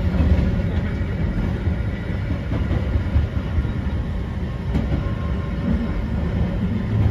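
Eizan Electric Railway train running along the track, heard from inside the car: a steady low rumble of the wheels and running gear.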